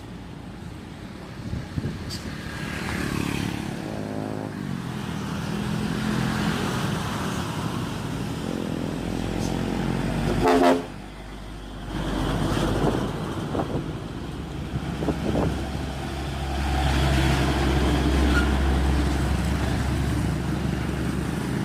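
Diesel engines of Hino trucks running as they drive past in convoy. A horn sounds briefly about halfway through.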